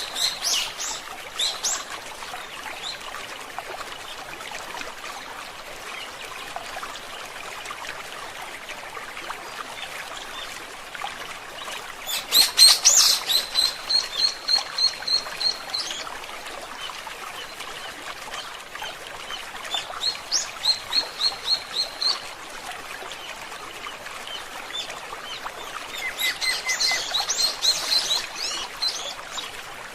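A songbird singing over the steady trickle of a forest stream. The bird gives four bouts of song, each a quick run of repeated high notes: at the start, about twelve seconds in, around twenty seconds, and again near the end.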